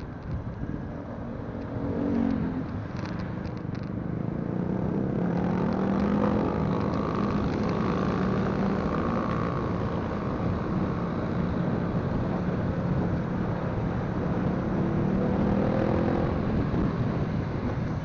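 Motorcycle engine running at cruising speed with road and wind noise; the engine note drifts gently up and down and gets louder over the first few seconds.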